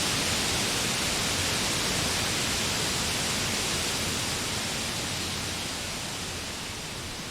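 Spring forest ambience: a steady, even rushing hiss with no distinct calls, slowly fading in the second half.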